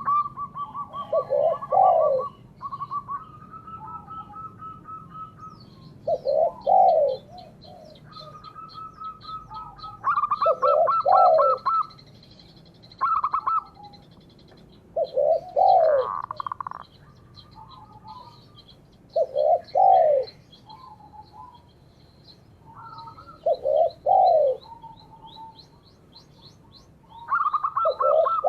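Doves cooing, a short falling phrase repeated about every four to five seconds, over another bird's rapid, even trill and faint high chirps.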